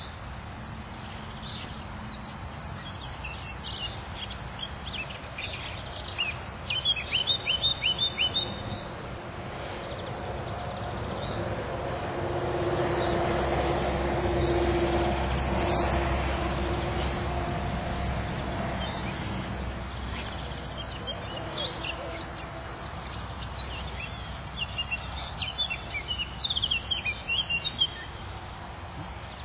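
Small birds chirping in quick trilling bursts, about six seconds in and again near the end, over steady outdoor background noise. A low hum swells and fades in the middle.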